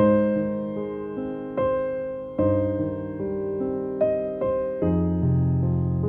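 Slow, gentle piano music: chords and single notes struck about every second, each fading before the next.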